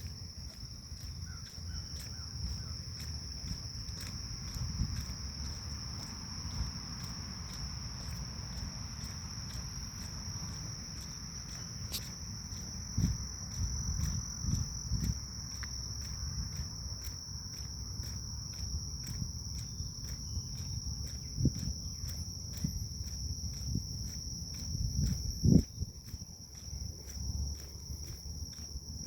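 Grass insects such as crickets singing in a steady, high-pitched, unbroken chorus, over the low rumble and thuds of footsteps walking a forest path. The loudest thud comes near the end.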